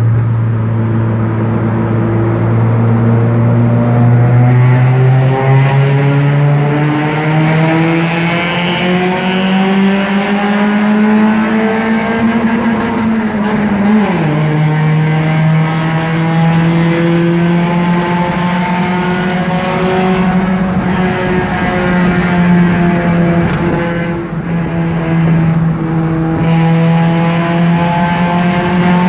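Honda car engine through a Varex exhaust, pulling under load with its note climbing slowly for about 13 seconds. It drops sharply at a gear change about halfway through, then holds a steady pitch.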